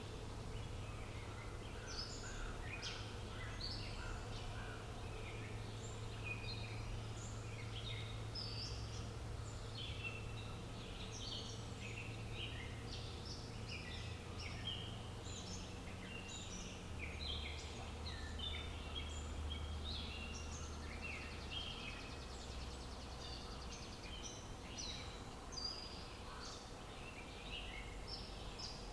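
A chorus of many small birds chirping in short, overlapping calls, over a steady low rumble.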